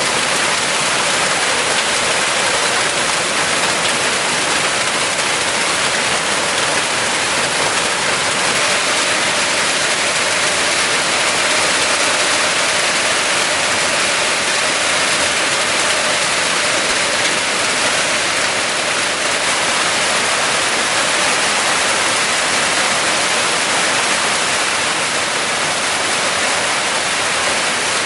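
Heavy rain falling, a loud, steady downpour.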